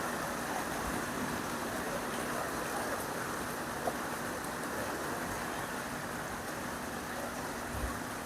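Steady heavy rain, an even hiss, with a faint steady hum underneath and a small click about four seconds in.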